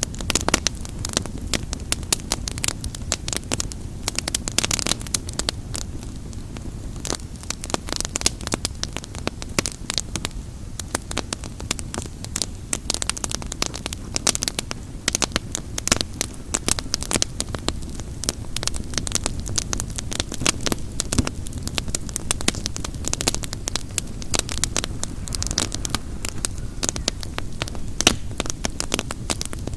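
Wood fire crackling steadily, a dense run of sharp pops and snaps over a low steady rumble.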